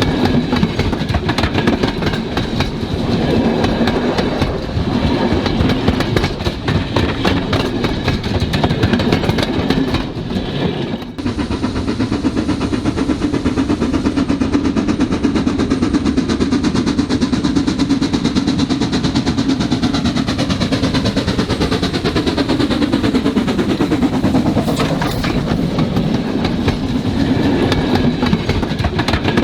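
Model railway locomotives and rolling stock running on layout track: a continuous rattle and clicking of small wheels over the rails and joints, with electric motor hum. There is a short break about eleven seconds in, and a falling whine a little past the middle.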